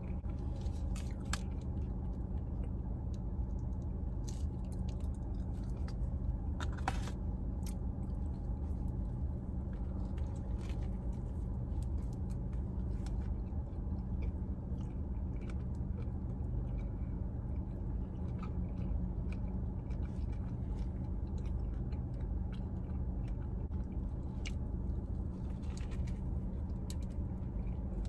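A person chewing and biting into a fish sandwich close to the microphone, with scattered soft clicks and crackles. Under it runs a steady low hum inside the car.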